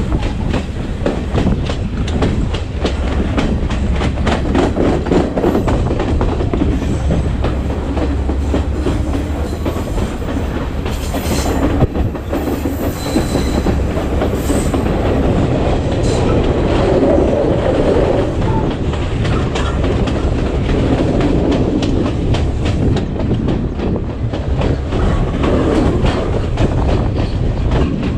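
Passenger train running on the track: a steady low rumble with wheels clicking over rail joints, and a brief higher hiss or squeal about halfway through.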